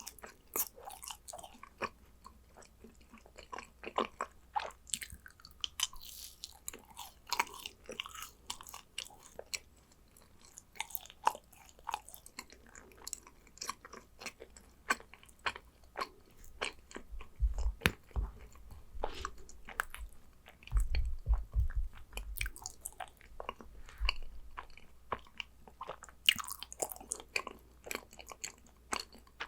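Close-miked chewing and biting of yakgwa, a honey-soaked fried Korean cookie: a steady run of short, sticky, wet clicks and smacks. Between about 17 and 22 seconds in comes a cluster of low thumps.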